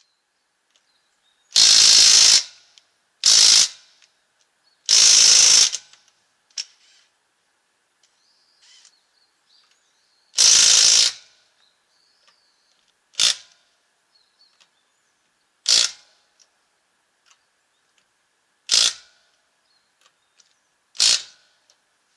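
Makita 18V cordless impact wrench run in eight short bursts on the wheel nuts, the first four lasting up to about a second and the last four briefer, with pauses between.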